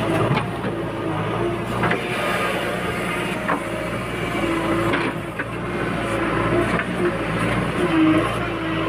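Heavy diesel machinery running steadily, with a higher whine that wavers in pitch now and then and a few sharp knocks scattered through.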